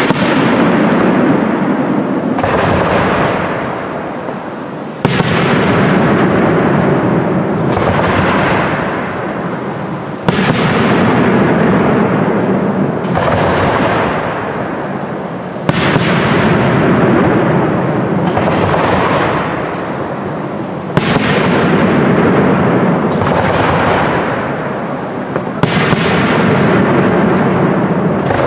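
Aerial fireworks shells bursting about every five seconds, each a sharp bang followed by a dense crackle that dies away over several seconds, with smaller pops in between.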